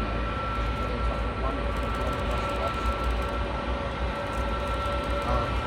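Steady engine rumble with a constant high whine.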